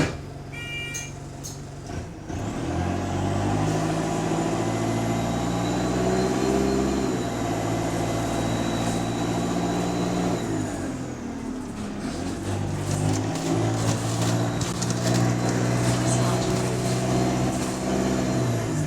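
Bus engine pulling away under load, its pitch climbing in steps as the gearbox shifts up, easing off about ten seconds in and then pulling hard again; a thin high whine rides over the engine. The bus has an exhaust leak.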